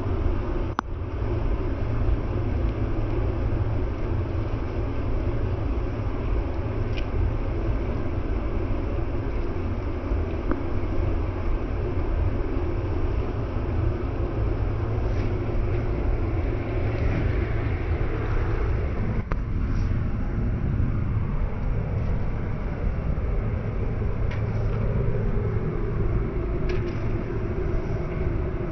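Train engine running with a steady low rumble, with a few faint clicks over it.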